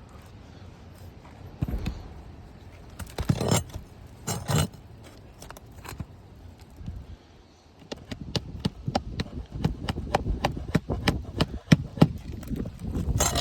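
A hammer tapping a nail into a roof shingle: a quick run of sharp light strikes, several a second, through the second half, after two short rustling scrapes near the start.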